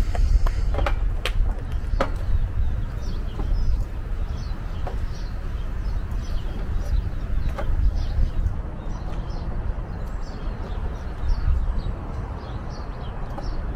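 A small bird chirping repeatedly, short high notes about twice a second, over a steady low rumble. A few sharp metallic clicks in the first two seconds come from the portable charcoal grill being handled.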